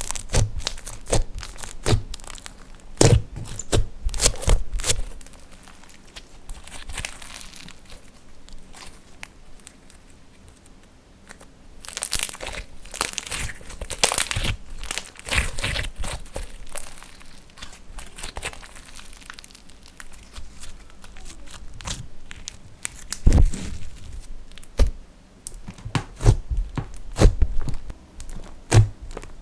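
Slime being worked by hand, squeezed, stretched and pressed, giving a run of sharp clicks and pops, with a quieter spell in the middle and then a few seconds of softer rustling.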